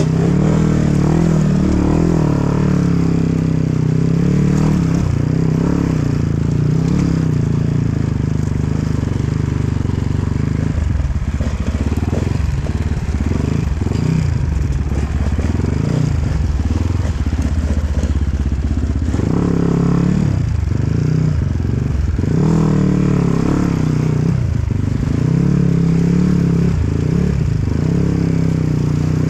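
Enduro dirt bike engine running under constantly changing throttle, revving up and dropping back in short bursts as it is ridden over rough off-road ground.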